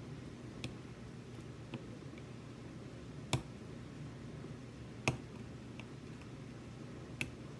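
Small, sharp metallic clicks of lock picking tools working inside a Sargent Signature lock cylinder, a handful of single clicks a second or two apart, the loudest about three and five seconds in, over a steady low hum.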